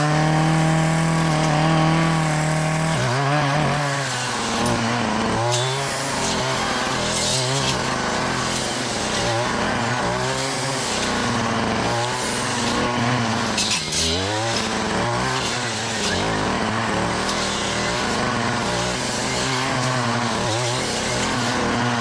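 Gas-powered brush cutter engine held at high revs for about three seconds, then revving up and dropping back again and again as it cuts through thick brush.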